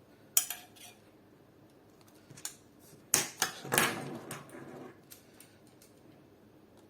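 Sharp metallic clinks and clicks of an Allen key and small metal parts being handled while an airsoft AK is taken apart, with a short cluster of the loudest clinks about three to four seconds in.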